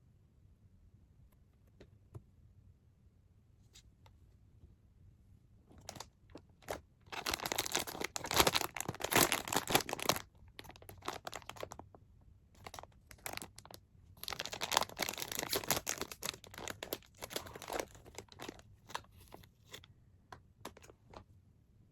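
Toy packaging being torn open and crinkled by hand, in two longer noisy bouts of tearing and crumpling, with scattered rustles and clicks between them.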